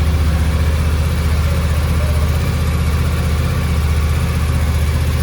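Suzuki V-Strom 800DE's 776 cc parallel-twin engine idling steadily, with an even low pulsing beat.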